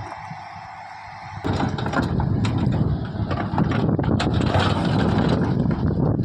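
Heavy diesel machinery running at a worksite, with scattered knocks and clanks. For about the first second and a half the deep rumble is missing and it is quieter; then the full engine rumble comes back suddenly.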